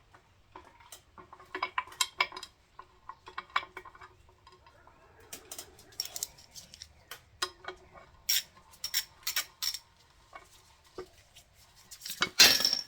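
Small metal bolts and hand tools clinking and clicking against an engine's timing cover as the bolts are started and a short ratchet is fitted: irregular light taps with brief metallic ringing, and a louder clatter near the end.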